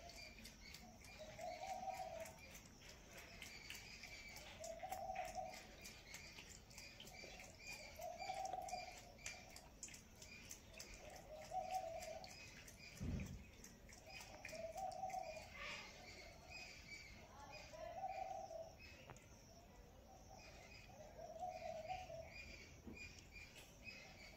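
A bird repeats a short call about every three seconds, over the faint quick clicks of a cat lapping milk from a steel bowl. There is one low thump about halfway through.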